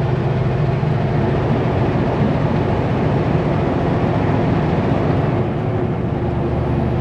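Kenworth W900L semi truck's diesel engine droning steadily under way, mixed with road noise, heard from inside the cab. The low drone changes slightly about six seconds in.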